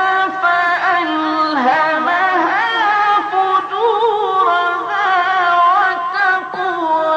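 A male voice in melodic Quran recitation (tajweed), drawing out a long, ornamented melismatic passage. The notes are held and wavering, and the voice turns up and down in pitch.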